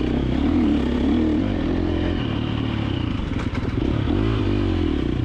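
KTM 350XC-F dirt bike's four-stroke single-cylinder engine revving up and down as the throttle is worked on a trail, its pitch climbing and dropping several times.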